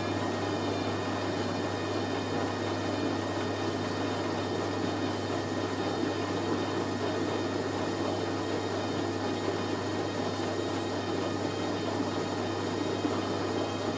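Hoover A3060 Electronic 1100 front-loading washing machine in its first intermediate spin, its motor and drum spinning at a steady speed with an even hum; the drum is balanced and the spin is running smoothly.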